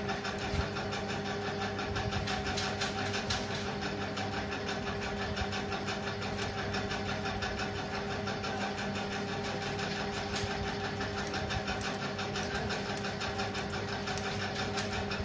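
Electric hair clipper buzzing steadily with an even, unbroken hum as it cuts hair.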